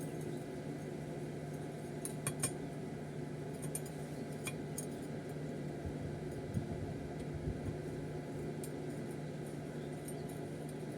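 Steady low machine hum with a few light metallic clinks, one pair about two seconds in, another near the middle and one more later.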